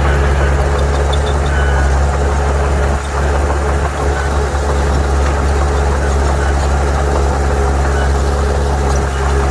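Heavy diesel engine of earthmoving machinery running steadily: a loud, deep, continuous rumble, with a faint steady whine above it from about halfway through.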